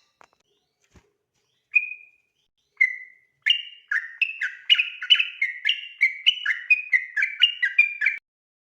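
Sooty-headed bulbul (trucukan) singing: two single clear notes, then from about three and a half seconds in a fast run of alternating high and low notes, the rolling 'ropel' phrase, which stops abruptly near the end.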